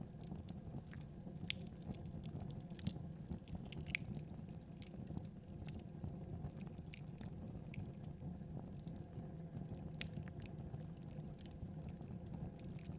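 Wood fire burning with a steady low flame noise and irregular sharp crackles and pops, a few louder pops in the first four seconds.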